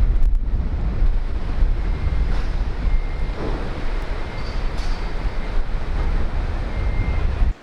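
Wind buffeting the microphone on a ship's open deck: a heavy, steady rumble that cuts off suddenly near the end.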